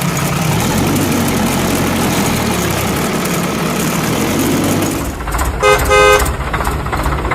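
Vehicle engine running with a low rumble, then two short horn toots about five and a half seconds in, with the engine running on after them.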